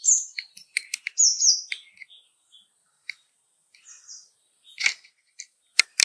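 Birds chirping in short, high notes, a few at a time, with several sharp clicks or taps between them.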